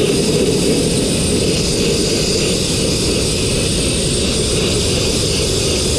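Blast nozzle spraying fine crushed-glass abrasive on compressed air, a loud, steady hiss with a low rumble underneath.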